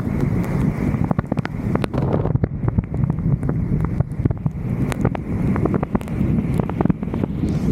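Wind buffeting the microphone of a roof-mounted camera, a loud, rough rumble, with scattered sharp ticks throughout.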